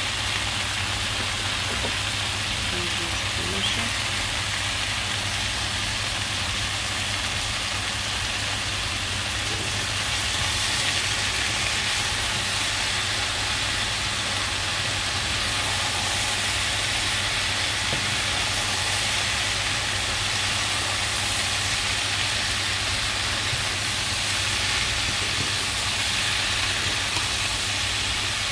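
Sliced potatoes, champignon mushrooms and diced smoked pork fat sizzling steadily in hot oil in a skillet, with a steady low hum underneath.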